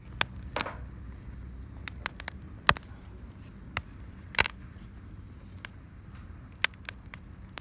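Wood fire crackling: irregular sharp pops and snaps, the loudest about half a second, two and a half and four and a half seconds in, over a low steady rumble.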